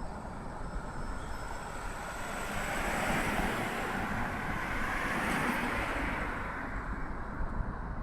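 Road traffic: a vehicle passes, its tyre and engine noise rising over a couple of seconds and fading away again, over a steady low traffic rumble.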